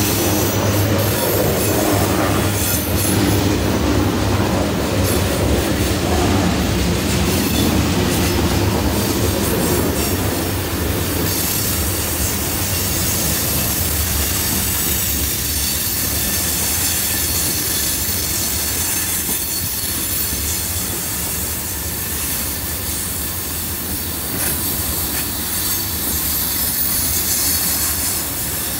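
Freight train rolling around a sharp curve: steel wheels squealing against the rails amid the steady clatter of the cars, with a low rumble that is heavier for the first ten seconds or so.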